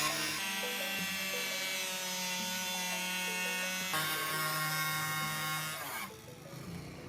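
A small electric power tool's motor running with a steady whine. Its pitch shifts slightly twice, and it stops about six seconds in.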